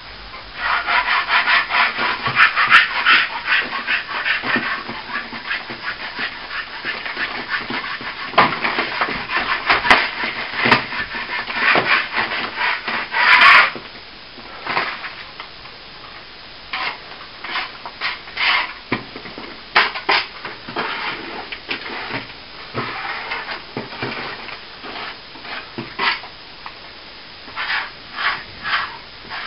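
Hand tool scraping and rubbing on a plaster surface, in dense continuous strokes for the first dozen seconds, then in short separate strokes.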